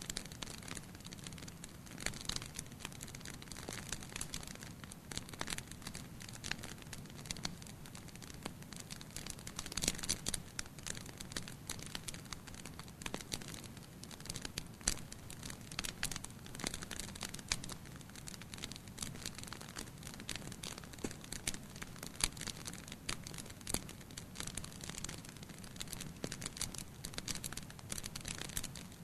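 Wood fire burning in a fireplace, crackling and popping with frequent irregular sharp snaps over a steady low rumble and hiss of the flames.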